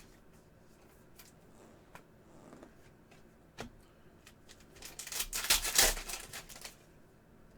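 Trading cards being handled and sorted by hand: scattered light clicks and slides, then a loud rustling burst about five seconds in that lasts under two seconds.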